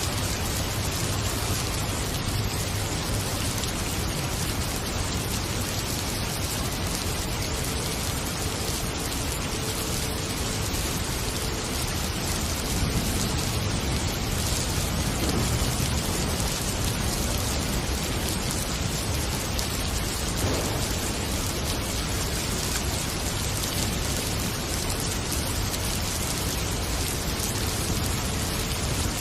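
Heavy tropical rainstorm: a steady, even hiss of downpour.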